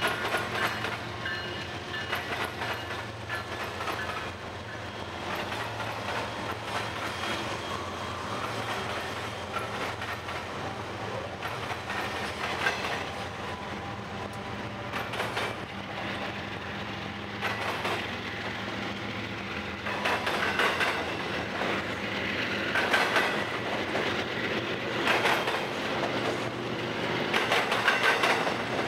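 BNSF freight train passing close by. The GE diesel locomotives run past at first, then double-stack container cars roll by. Their wheels clatter in repeated heavy clacks as they cross the diamond, growing louder in the second half.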